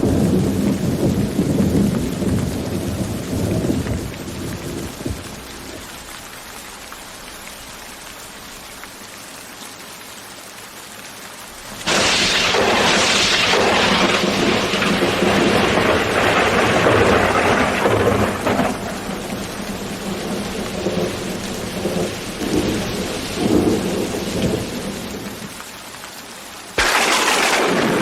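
Thunderstorm with steady rain. A roll of thunder dies away over the first few seconds, leaving rain alone. About twelve seconds in a sudden sharp thunderclap breaks and rumbles on for over ten seconds, and another sudden crack of thunder comes near the end.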